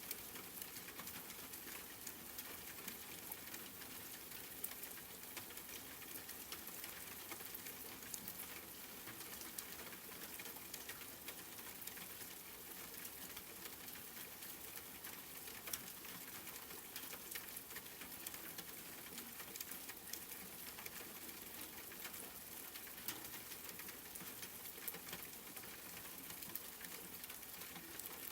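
Steady rain: an even hiss with many small drop ticks pattering throughout, and now and then a single louder drop.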